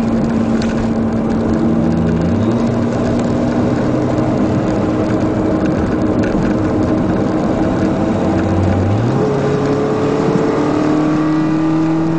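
In-car sound of a Mitsubishi club racing car's engine under load around the track, heard with heavy road and wind noise. The engine note holds and steps between steady pitches through the corner, then rises steadily in pitch about three quarters of the way through as the car accelerates onto the straight.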